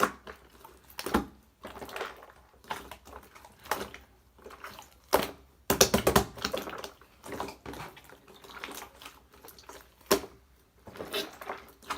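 Hands squishing and folding clear slime with another slime mixed into it, making irregular runs of sticky clicks and pops, loudest about halfway through.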